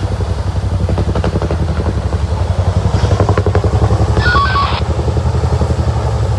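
A motor vehicle's engine running steadily, a low rumble that pulses rapidly.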